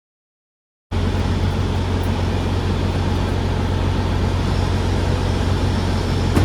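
Truck engine running steadily, heard as a constant drone with a strong low hum. It cuts in suddenly about a second in.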